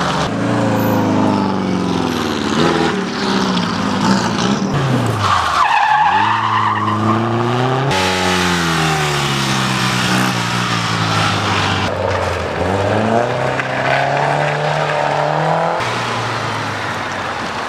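Classic car engine revving hard and dropping back again and again through a gymkhana course, its pitch rising and falling with each burst, with a tyre squeal about five to six seconds in.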